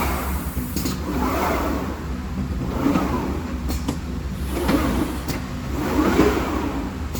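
CNC glass cutting machine running: a steady low hum, with its drive motors swelling up and down about every one and a half to two seconds as the machine moves, and a few sharp clicks.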